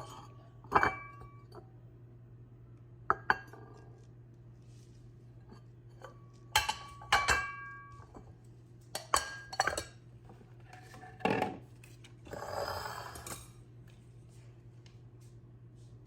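Plates and bowls clinking and knocking together as they are handled and set down, each knock ringing briefly; a short rustle near the end.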